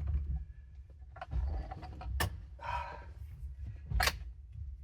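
A few sharp clicks and knocks of hand work on a car's steering, the loudest about two and four seconds in, with some rustling between them, as the steering wheel is turned by hand to full lock.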